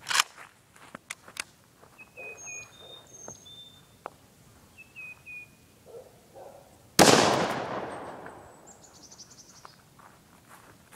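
A single Mosin-Nagant rifle shot (7.62×54R) about seven seconds in, very loud and sudden, its report echoing and fading over a second or two. Before it come a few sharp clicks, and small birds chirp throughout.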